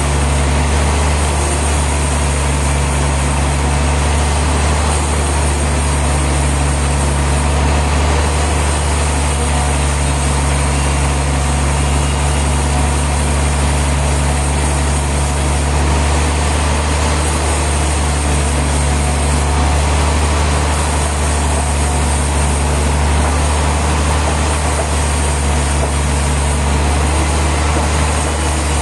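Sawmill machinery running steadily: a loud, unchanging low engine-like hum with a constant hiss above it.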